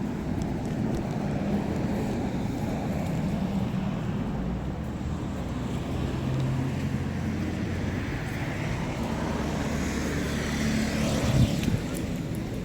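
Steady engine hum with a pitch that shifts and brightens toward the end, and a short thump near the end.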